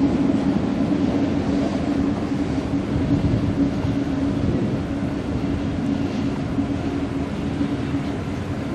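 ICE high-speed train running past on the main line, a steady rumble of wheels on rail with a constant hum, slowly growing fainter.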